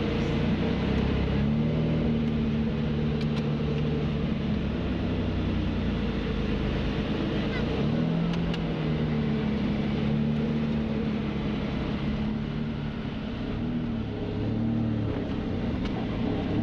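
Lamborghini Diablo's V12 with an SVR racing exhaust, heard from inside the cabin while driving. It runs mostly at steady revs, with brief dips and rises in pitch about eight seconds in and again near the end as the throttle comes off and back on.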